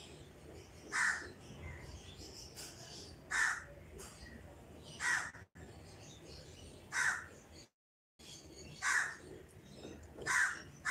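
A bird calling six times, one short call every one and a half to two seconds.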